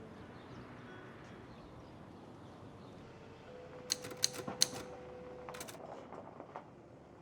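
Quiet background with a quick run of about five sharp clicks or taps a little past halfway through, over a faint steady tone, and a few weaker clicks just after.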